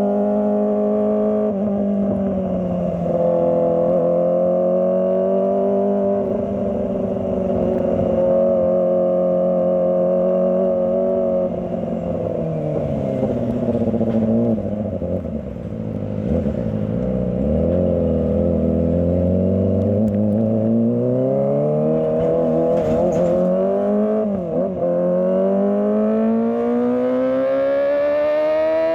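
Kawasaki ZX25R's 250 cc inline-four engine running while the motorcycle is ridden, its pitch following the throttle. It eases down to a low point around the middle, then climbs steadily as the bike accelerates near the end.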